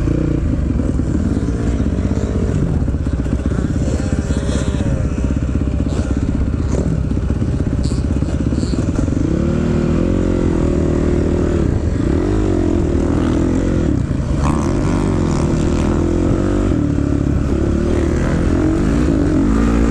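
Honda CRF450 dirt bike engine being ridden hard, its pitch climbing and dropping again and again as the throttle is opened and closed.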